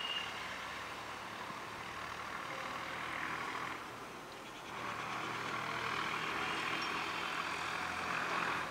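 Electric multiple-unit local train approaching slowly along the platform: a steady rumble and hiss of wheels and traction motors that dips briefly midway, then grows louder and cuts off suddenly at the end.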